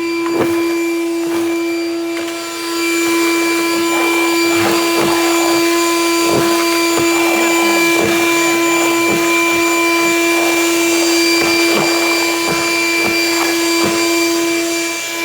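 Ridgid 6-gallon wet/dry shop vac running with a loud, steady motor whine, while irregular clicks and crackles come from leaves and debris being sucked up the hose.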